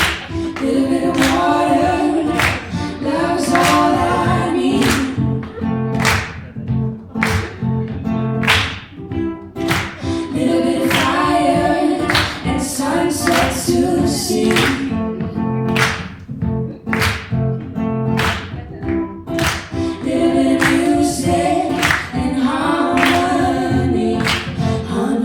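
Live acoustic song: voices singing together over a sharp percussive hit that keeps the beat about once every second and a bit.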